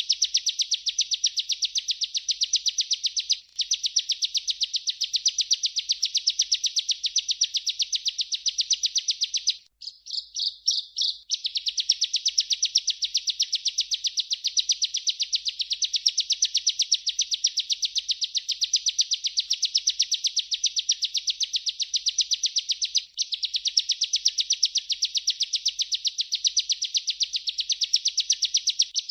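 Bar-winged prinia (ciblek) singing its rolling 'ngerol' song: a long, unbroken run of rapid high notes. It pauses briefly twice, and about ten seconds in it breaks into a few short stuttered phrases before the roll resumes.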